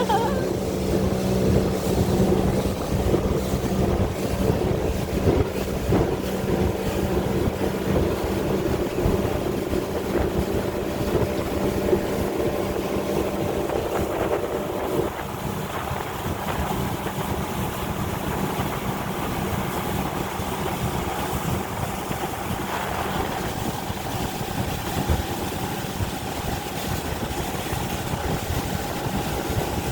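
A motorboat's engine running steadily while under way, with water rushing against the hull and wind on the microphone. About halfway through, part of the engine's note drops away and the sound eases a little.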